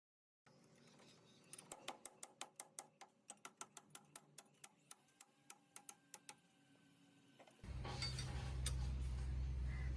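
Workshop sounds: a run of sharp, evenly spaced taps at about four a second. Near the end a louder low hum with a noisy hiss starts suddenly, like a machine running.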